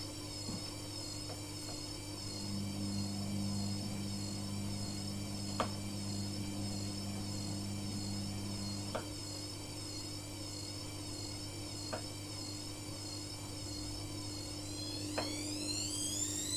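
Steady electrical hum with a faint, high warbling whine above it, and a few faint single ticks spread through.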